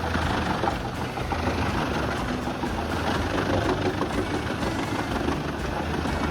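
Heavy machine engine running steadily under a dense mechanical clatter.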